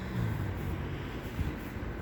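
Steady low rumble of a running vehicle engine, with a faint low hum that wavers slightly about a second in.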